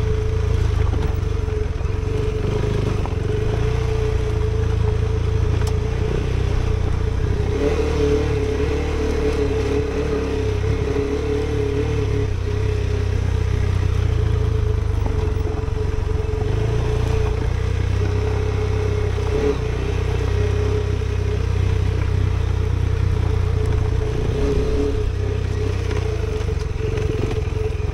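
KTM 390 Adventure's single-cylinder engine running at fairly steady revs as the bike is ridden along a dirt trail.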